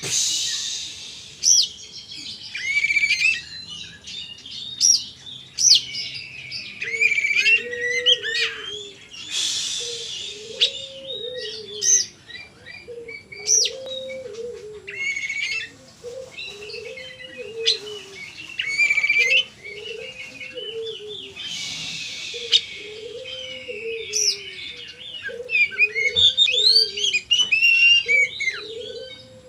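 Oriental magpie-robin (kacer) singing a fast, varied stream of sharp whistles, quick up-and-down sweeps and short harsh buzzy bursts, the chattering 'konslet' style of song.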